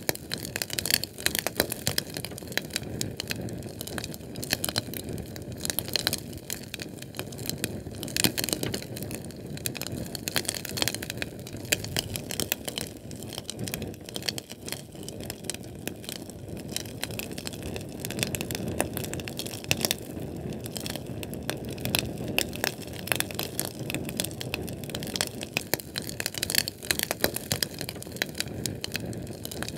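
A Sterno canned-fuel flame crackling, with a dense, irregular run of sharp pops and snaps over a low rush of burning.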